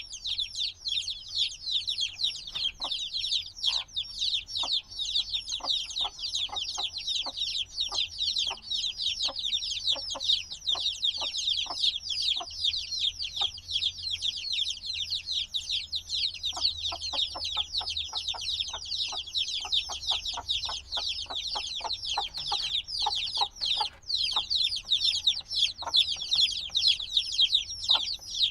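A brood of chicks a few days old peeping nonstop. Many short, high, downward-sliding peeps overlap densely, the noisy calling of chicks that still need their mother's warmth.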